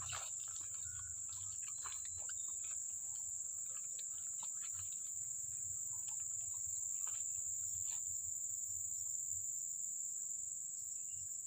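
Steady, unbroken high-pitched insect chorus of crickets, with faint scattered ticks and rustles underneath.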